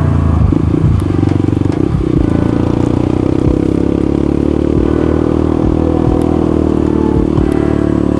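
Motorcycle engine running, its pitch shifting up and down in the first two seconds and then holding steady.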